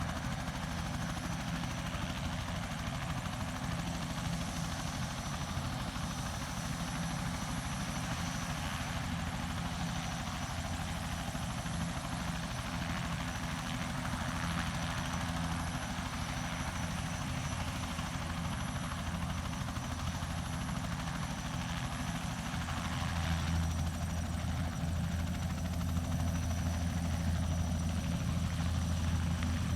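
Crop-spraying helicopter running steadily, with a low rotor and engine beat and a faint high whine. It grows a little louder and deeper about 23 seconds in.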